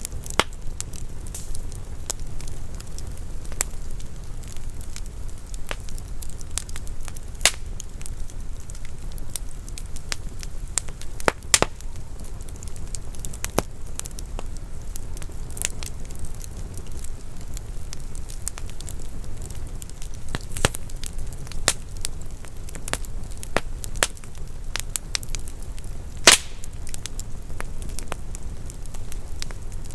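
Wood fire burning in a fireplace, crackling with scattered sharp pops over a low steady rumble; one louder pop comes near the end.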